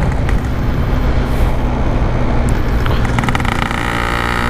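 Yamaha RX-King two-stroke motorcycle engine running steadily while being ridden in traffic, under wind and road noise. About three seconds in, a higher-pitched layer of engine sound joins.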